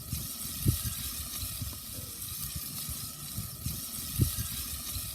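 Flour-coated stew meat sizzling as it browns in hot cooking oil in a stainless steel stock pot, a steady hiss with scattered low pops, two of them louder, about a second in and near the end.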